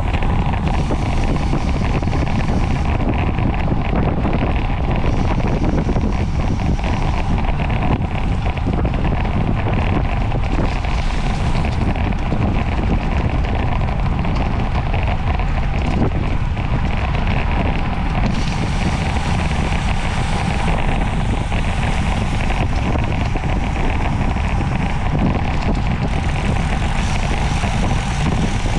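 Steady, loud wind rushing over the microphone of a camera carried through a bicycle race at speed.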